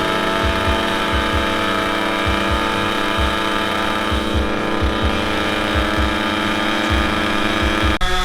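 Engine running steadily at a constant speed, its pitch holding level.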